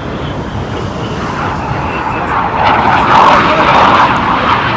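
Air show aircraft flying past, its noise swelling and at its loudest about three seconds in.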